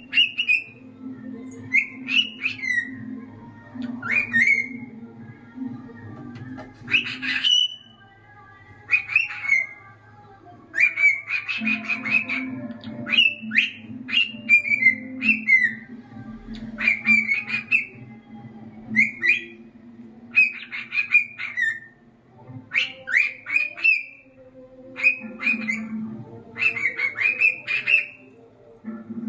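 Male cockatiel singing: clusters of short whistled notes, many gliding up or down, with some harsher chattering notes, repeated with brief pauses between phrases.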